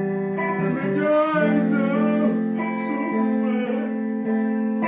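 Gospel song accompaniment on guitar, chords held between sung lines, with a brief wordless vocal run about a second in.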